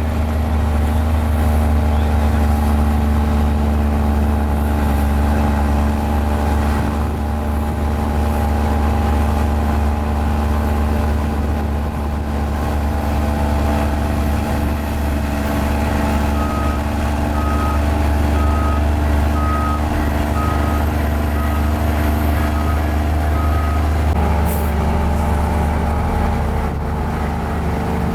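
Mini Komatsu bulldozer's diesel engine running steadily under load. A reversing alarm sounds about ten short, even beeps through the middle of the clip, and the engine note shifts near the end.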